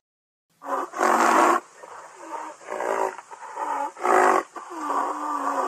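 Rhinoceros calling: a run of about six rough, noisy grunts, roughly one a second, the first the loudest, with a longer held call near the end.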